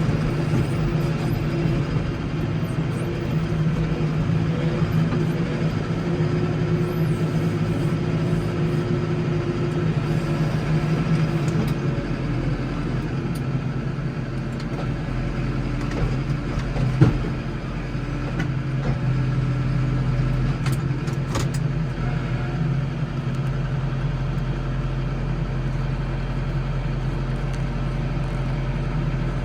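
Case IH Farmall 115U tractor's diesel engine running steadily under load. A single sharp knock comes a little past halfway.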